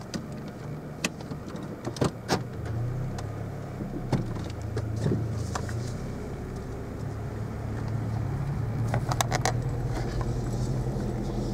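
Car engine running with a steady low hum, heard from inside the cabin. Several sharp clicks and knocks sound over it, a cluster of them about nine seconds in.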